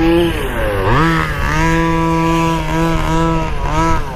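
Small two-stroke engine of a 1/5-scale petrol RC buggy. Its revs drop about half a second in, climb back about a second in and hold steady at high revs, then rise and fall in quick throttle blips near the end.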